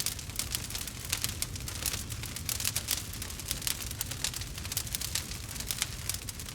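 Campfire crackling: a dense run of small sharp pops and snaps over a low steady rumble.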